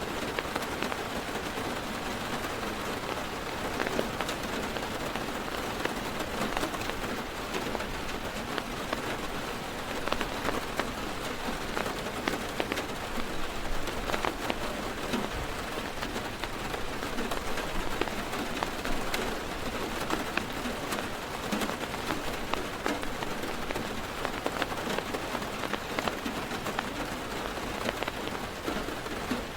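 Heavy rain falling on a car's roof and windows, heard from inside the car: a steady hiss dotted with many separate drop taps.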